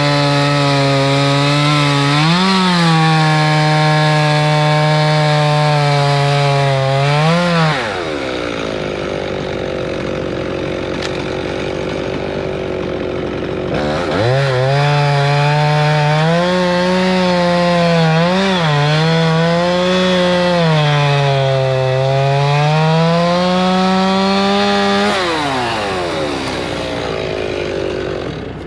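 Stihl MS311 two-stroke chainsaw cutting through a spruce log at full throttle, its pitch dipping and recovering as the chain loads in the cut. About 8 s in it drops back, revs up into the cut again about 14 s in, and winds down near the end as the cut finishes.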